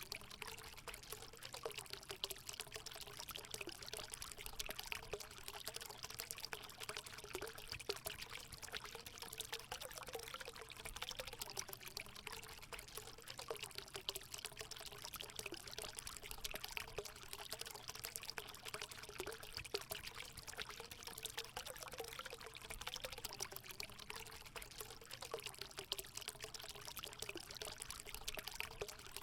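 Water pouring and trickling steadily into a hot spring pool, with a gurgling, splashing texture and no break.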